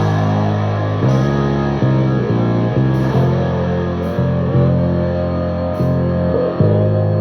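Electric bass playing a slow heavy rock line along with a recorded track that has distorted electric guitar, the notes changing every half second to a second.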